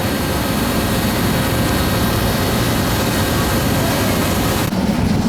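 Steady, loud rushing noise with a faint steady hum running through it. Near the end it changes abruptly to a duller, lower hum.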